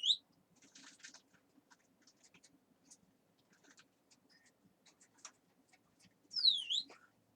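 Pet parrot giving two sharp whistled calls, each sweeping steeply down in pitch and then back up, one at the start and one about six and a half seconds in. Faint clicks and scratches between the calls.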